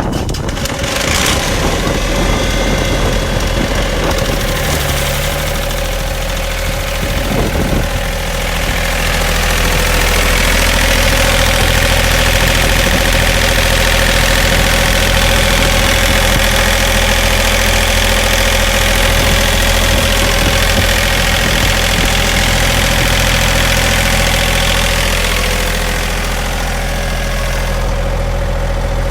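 Ingersoll Rand 7/31 mobile air compressor's engine running steadily, with a broad hiss that builds about eight seconds in and eases near the end.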